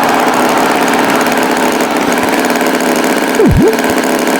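Tractor engine running steadily. About three and a half seconds in there is a brief sharp dip and rise in pitch.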